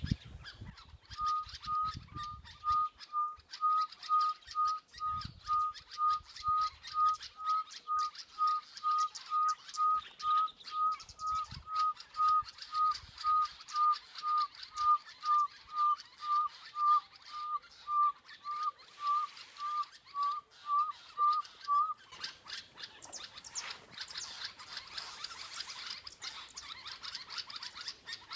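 Pearl-spotted owlet call: a long series of evenly spaced whistled notes at one pitch, about two a second for some twenty seconds, growing louder, with the later notes slurring downward. Other small birds chirp in the background.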